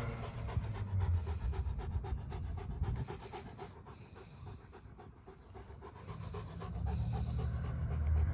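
Dog panting rapidly and rhythmically, several breaths a second, growing fainter about halfway through before picking up again near the end.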